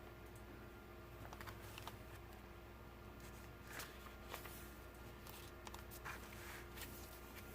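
Faint scattered rustles and soft clicks of paper journal pages being handled and turned, over a low steady hum.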